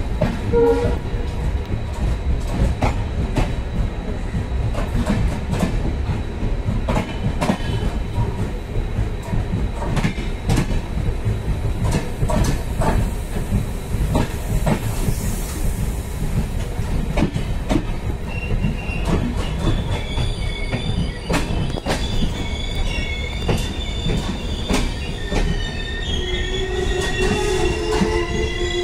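Indian Railways BOXNHL open freight wagons rolling past close by: a steady heavy rumble with the wheels clacking over rail joints. From about two-thirds of the way in, the wheels also squeal against the rails in several high tones, which grow stronger near the end.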